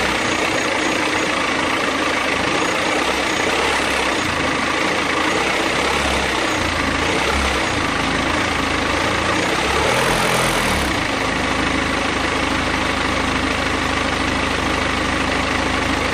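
BMW F31 316d's four-cylinder diesel engine running at idle, with the noise whose cause the owner is asking about. The low rumble changes to a steadier, evenly pulsing hum about 11 seconds in.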